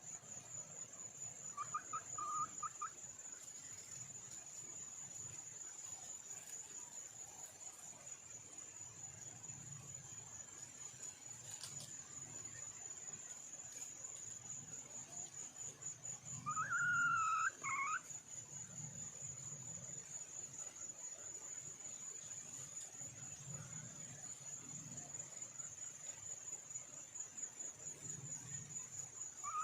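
A steady high insect trill runs throughout. Over it a junglefowl hen calls twice: a short faint call about two seconds in and a louder call a little past halfway.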